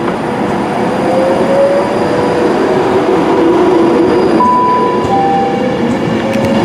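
Class 390 Pendolino electric train accelerating away from the platform: steady wheel and rail noise, with a traction whine that rises slowly in pitch and a couple of brief higher tones about halfway through.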